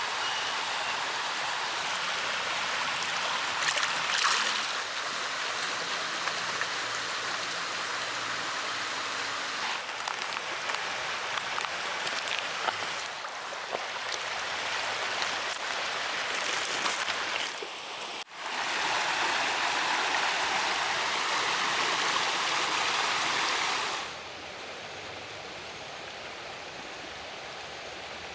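Running water: a steady rushing with a few small splashes. The sound changes abruptly twice, about 18 and 24 seconds in, dropping quieter for the last few seconds.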